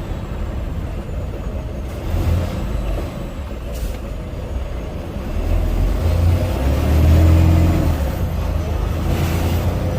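Freightliner Cascadia semi truck's diesel engine running as it drives, heard from inside the cab. About six seconds in, the engine note rises and gets louder, then eases off, with a brief short hiss a few seconds earlier.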